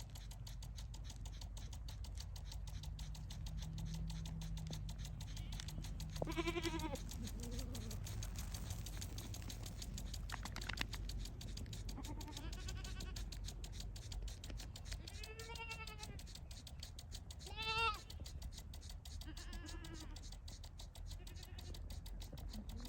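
Goats bleating, several separate calls a few seconds apart, one of the loudest about 17 seconds in.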